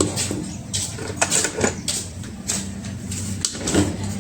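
Scattered short clicks and knocks of small parts and tools being handled while a madhani churner motor is taken apart, over a steady low hum.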